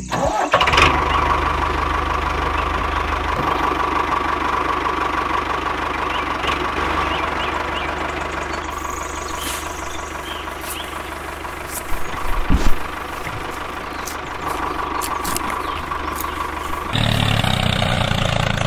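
An engine running steadily, with a few brief loud knocks about twelve seconds in; near the end the running sound turns heavier and deeper.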